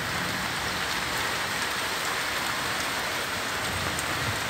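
Steady rain falling, with a constant patter of drops on surfaces.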